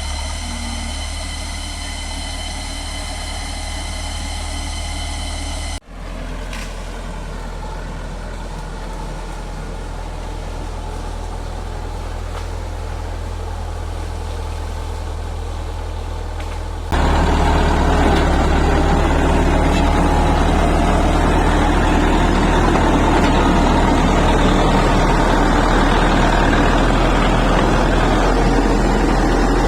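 Heavy earthmoving machine's diesel engine running steadily. For the first six seconds a high whine of several steady tones rides over the rumble. The sound changes abruptly about six seconds in, then turns much louder and rougher a little over halfway through.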